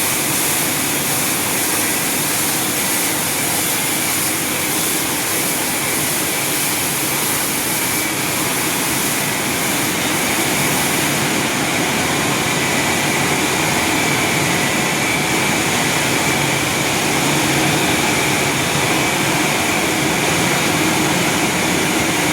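Automatic car wash machinery running: a steady, loud rushing noise with a faint, steady high whine, little changing throughout.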